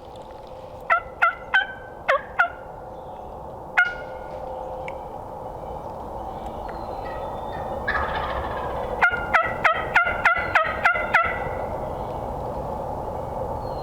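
Turkey yelping: a few single notes, then a quick, even run of about eight yelps about nine seconds in, each note dropping in pitch.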